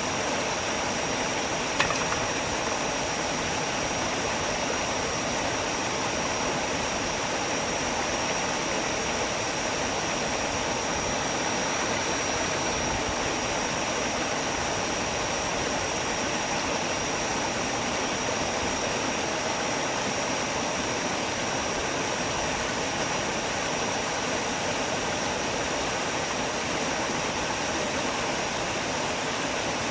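Steady rushing of stream water, with a thin, steady high-pitched whine over it and a single click about two seconds in.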